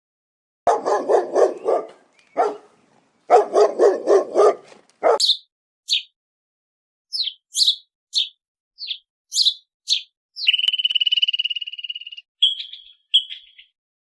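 A dog barking in two quick runs of about six barks a second. This is followed by short high-pitched bird chirps and a high, steady trill near the end.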